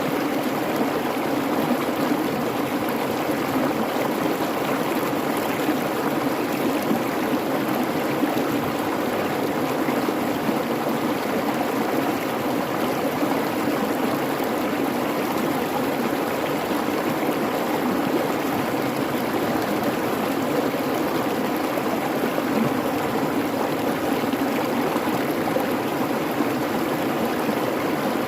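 Babbling creek: a steady, unbroken rush of running water.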